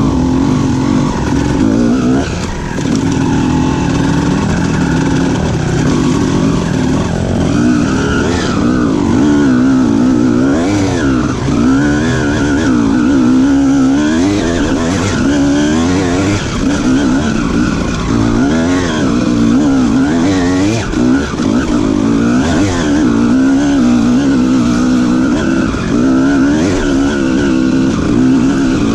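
Honda CR250R two-stroke single-cylinder engine being ridden hard, revving up and down continuously, its pitch rising and falling every second or two.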